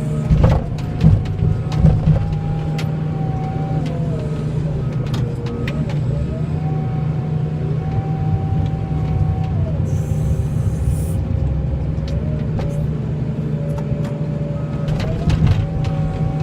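Vehicle engine running steadily while driving in snow, with a higher whine that steps up and down in pitch several times as the revs change. A few knocks sound in the first couple of seconds.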